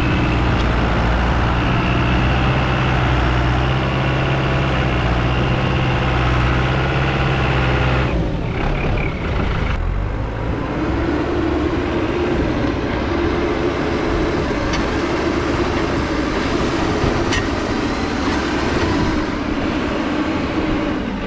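Diesel engine of a loader working hard as it pushes into a snow pile. About eight seconds in the sound changes, and from about ten seconds on a higher tone rises and falls over the engine.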